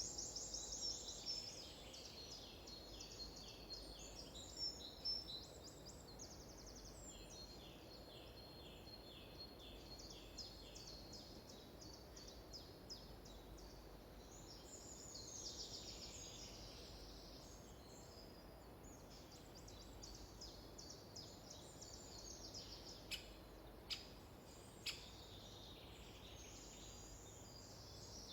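Small songbirds singing faintly, several overlapping trills and rapid repeated chirps, over a quiet background hiss. Three short sharp clicks sound near the end.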